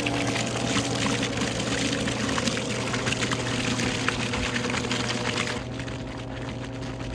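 Oreck upright vacuum cleaner's motor running, a steady hum under a loud, rough rush of air. The rush drops to a lower level about five and a half seconds in.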